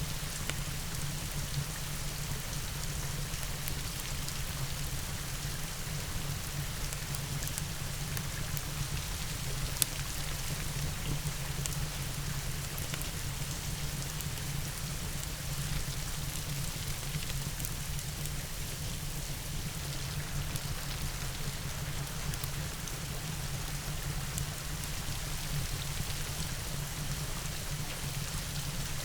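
Steady rain falling, an even hiss with a low rumble beneath, and scattered sharp clicks. One click about ten seconds in is louder than the rest.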